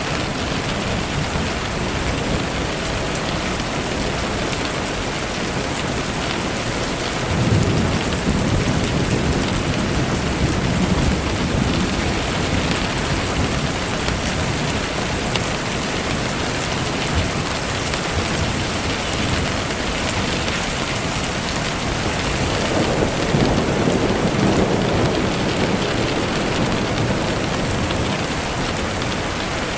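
Steady, heavy rain falling, with a low rumble of thunder swelling up about a quarter of the way in and again past the middle.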